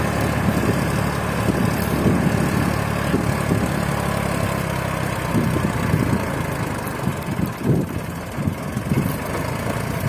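Eicher 380 4WD tractor's diesel engine running, steady at first and then uneven and pulsing for the last few seconds.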